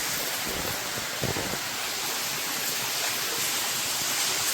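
Waterfall running low, its thin flow of water falling and splashing in a steady, even rush.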